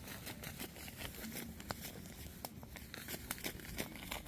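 Campfire crackling, the burning wood giving off irregular sharp pops and snaps.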